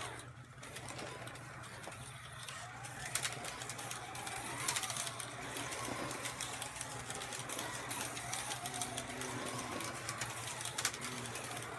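Carrera Digital 132 slot cars running on the track: their small electric motors whine, the pitch rising and falling as they speed up and slow down, with scattered sharp clicks.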